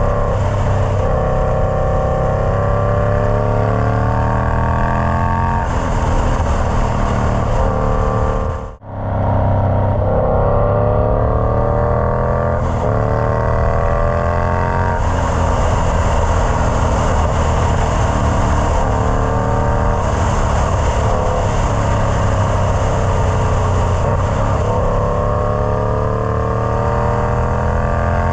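Indian Scout Bobber's V-twin engine running through a Freedom Performance Combat 2-into-1 exhaust, its revs climbing several times and then dropping back. The sound cuts out briefly about nine seconds in.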